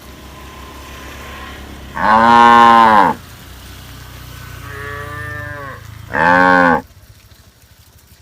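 Cattle mooing: three calls of about a second each, the first and last loud and the middle one quieter, each rising and then falling in pitch. A low steady hum underneath stops shortly before the end.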